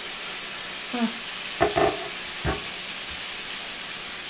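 Ground-beef patties and sliced onions sizzling steadily in an uncovered skillet, the onions tender and starting to brown. A couple of short sounds come about halfway, the last a sharp knock.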